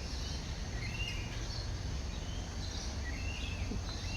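A bird calling over and over, a short curved chirp repeating about every second, over a steady low rumble of outdoor background noise.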